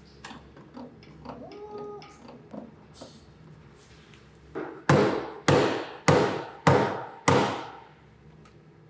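Five hard, evenly spaced hammer blows, about two a second, each ringing out briefly. Before them come a few faint knocks and clatters.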